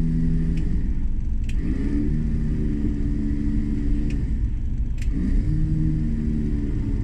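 Jeep engine running with a constant low rumble; its pitch rises and then holds steady twice, about a second and a half in and again about five seconds in, with a few light clicks.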